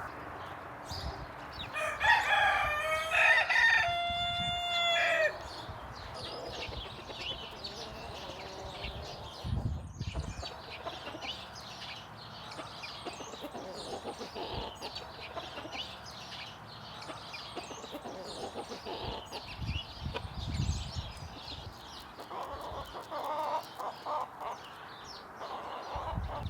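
A rooster crows once, a loud drawn-out call about two seconds in lasting about three seconds. Chickens cluck and call faintly for the rest of the time.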